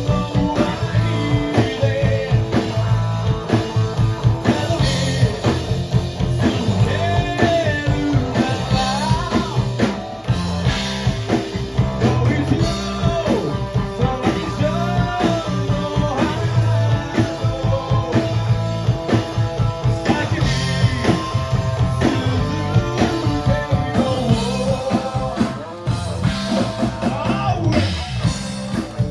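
Live rock band playing a song: electric guitar and drum kit with a vocalist singing over them.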